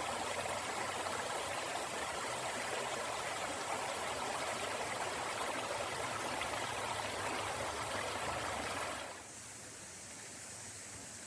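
Small creek waterfall, water rushing and splashing steadily; the sound drops to a quieter level about nine seconds in.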